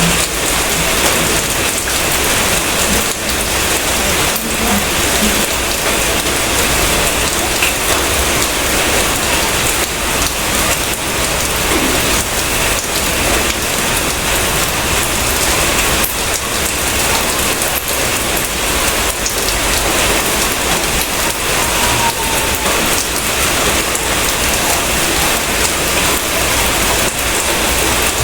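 Steady rain falling on a surface: a dense, even hiss with many separate drops ticking through it, unchanging throughout.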